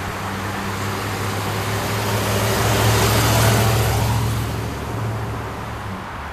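A vehicle passing by: a steady low engine hum and a rush of noise that swell to a peak about three and a half seconds in and then fade, the hum cutting off about six seconds in.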